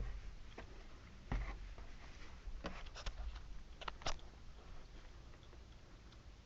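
Scattered clicks, knocks and light rustling from someone moving about in an attic and handling things, with a dull low thump about a second in and a run of sharper clicks around the middle.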